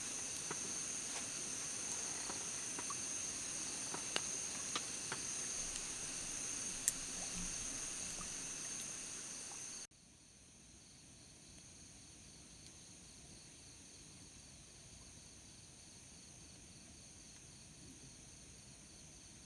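Insects chirring steadily outdoors, a high-pitched, even, pulsing drone, with a few light clicks in the first half. About halfway through, the whole sound drops suddenly to a quieter level, and the chirring continues more faintly.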